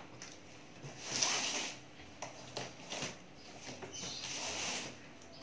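Packaging being handled and rummaged through in an opened monitor box: two longer rustling swishes with a few light knocks between them.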